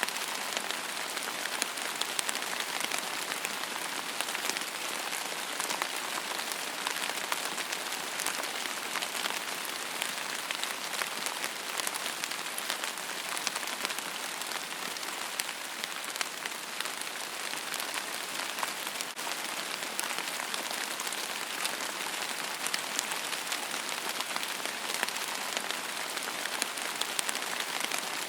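Steady rain falling: an even hiss with many small, sharp drop ticks.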